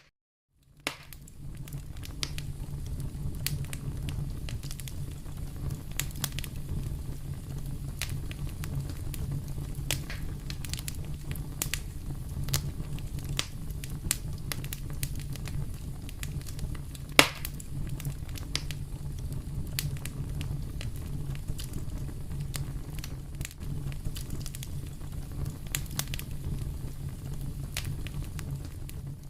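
Wood fire burning in a fireplace: a steady low rumble of flames with frequent sharp crackles and pops, one much louder pop a little past halfway, after a brief silent gap at the start.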